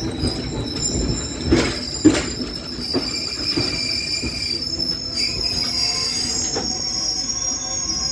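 Train wheels squealing against the rails, a high steady squeal in several tones, with a few sharp clacks from the wheels about one and a half, two and three seconds in. The squeal cuts off suddenly at the end.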